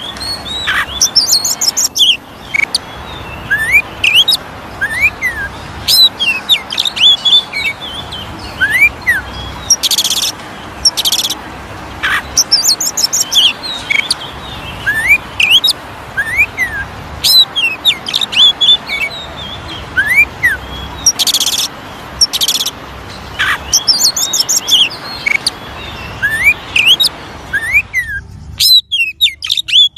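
Oriental magpie-robin (kacer) song: a quick run of varied whistles, rising and falling notes and short harsh buzzy bursts, over a steady hiss that drops out near the end.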